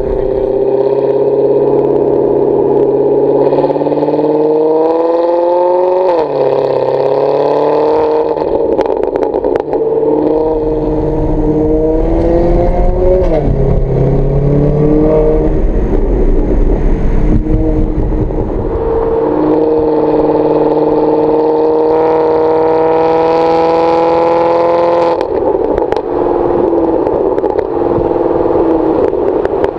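Maserati Quattroporte V8 through a Kreissieg valved exhaust, accelerating through the gears. The note rises and falls sharply twice at upshifts, then holds steady, with another change in tone near the end.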